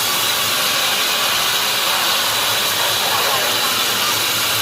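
Sawmill machinery running, a loud, steady hiss with no breaks or changes in pitch.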